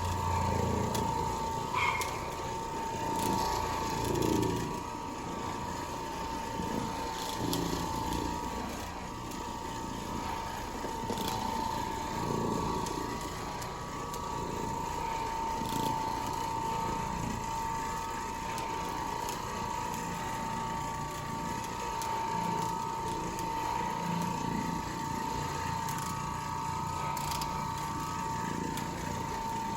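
Carpet-cleaning machine running with a steady high whine, with scattered clicks and knocks of handling over it.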